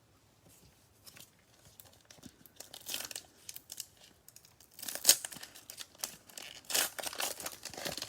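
Plastic wrapper of a Mosaic football cello pack being torn open and crinkled by hand: irregular crackling that starts softly about a second in and gets louder, with its sharpest rip about five seconds in.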